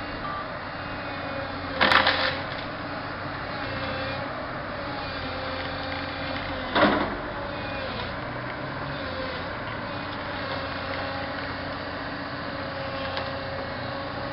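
A heavy machine's engine runs steadily as it pushes down a tree. Two loud, sharp cracks or knocks cut through it, about two seconds in and again about five seconds later.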